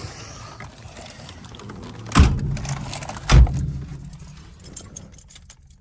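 Two heavy thumps a little over a second apart over a steady low hum, followed by a few light clicks.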